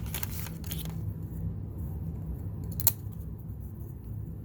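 Wax paper wrapper of a trading-card pack crinkling and tearing for about the first second, then one sharp click nearly three seconds in, over a steady low hum.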